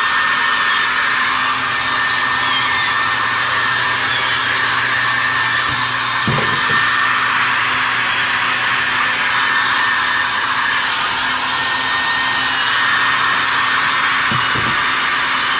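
Handheld hair dryer running steadily on its blow setting, a constant rushing hiss with a low motor hum underneath, used to dry bathed kittens.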